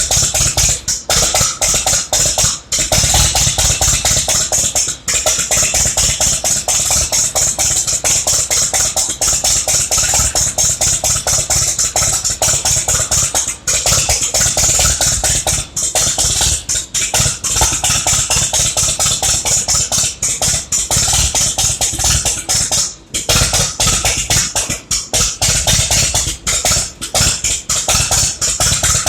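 Massey Ferguson Super 90 gasoline engine being cranked over by its starter: a rapid, even chugging that keeps going without the engine catching.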